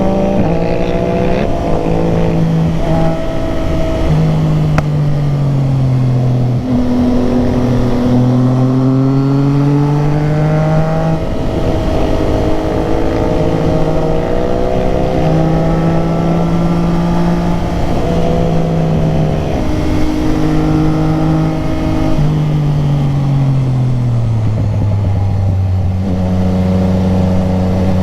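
Motorcycle engine under way, its pitch climbing and dropping again and again as the rider works the throttle and shifts gears through the curves, with a long fall in pitch near the end before it picks up again.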